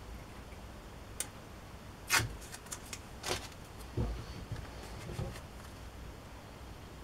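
Masking tape being worked and trimmed round a motor part by hand: a click, two short scraping rustles with light ticks between them, then a soft knock about four seconds in.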